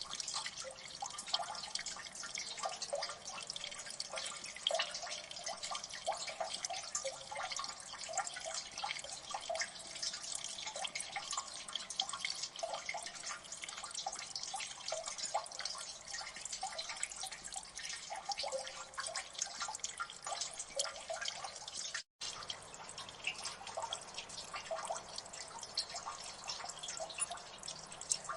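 Water dripping in a gully: many drops falling at an irregular, rapid pace, each a short plink, over a steady watery hiss. The sound cuts out for a split second about three-quarters of the way through.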